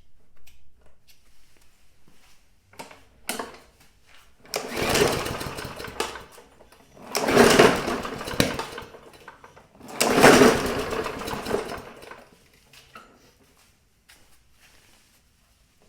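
Gas push mower being pull-started: three yanks on the recoil starter about two and a half seconds apart, each turning the engine over for a second or two without it catching.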